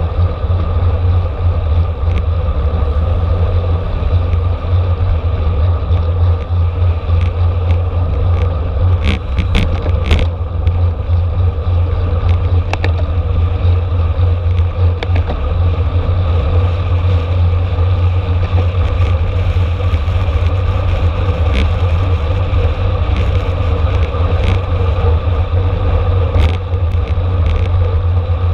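Wind rushing over the microphone of a camera on a bicycle at racing speed, with a steady hum of tyres and drivetrain and scattered clicks and rattles, most around ten seconds in.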